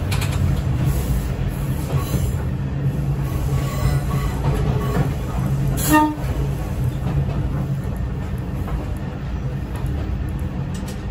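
Kominato Railway diesel railcar running along the line, a steady low rumble of engine and wheels on rail. About six seconds in, the train's horn gives one brief toot.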